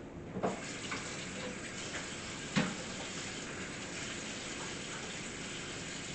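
Tap running into a sink while hands are washed, starting just after the start. A few short clunks are heard, the loudest about two and a half seconds in.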